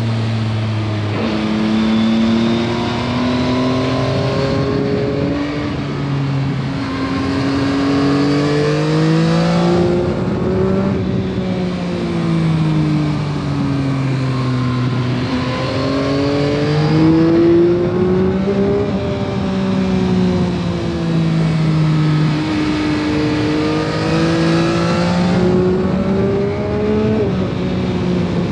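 2021 Yamaha MT-09 SP's 890 cc inline-three engine through its stock exhaust, under way: the engine note climbs and falls several times as the bike accelerates and slows, with sudden jumps in pitch at gear changes.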